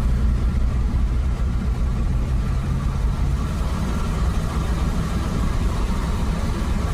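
Engine idling steadily with the valve covers off, its valvetrain rocker arms just adjusted, a loose rocker tightened, to cure a ticking.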